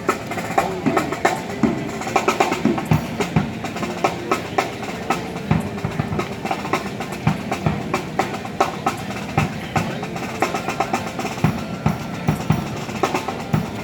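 Drums played by hand or with sticks, a quick run of sharp strikes several times a second, with some pitched musical tones underneath.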